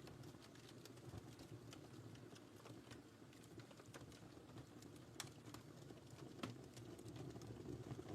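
Wood fire burning in a fireplace, faint: irregular sharp crackles and pops over a low, steady rumble of the flames.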